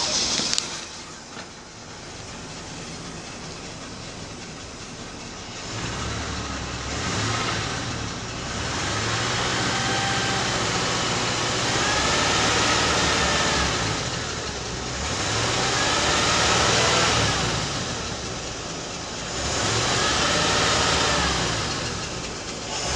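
Rolls-Royce Silver Shadow 6.75-litre V8 petrol engine running on a test. It is quieter for the first few seconds, then is revved up and let fall back again and again, swelling every few seconds.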